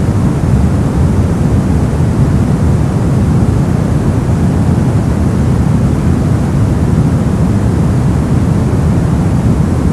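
Brown noise: a steady, loud, deep rushing hiss with most of its energy in the low end and the highs rolled off, unchanging throughout.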